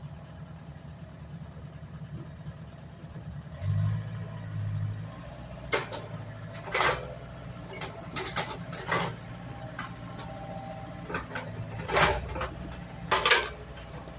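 Homemade doodlebug skidder's engine running steadily, its sound shifting about four seconds in. Several sharp knocks come over it, the loudest near the end.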